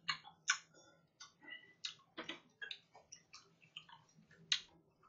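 Close-miked chewing of a raw oyster: a run of soft, irregular mouth clicks and smacks, one louder click near the end.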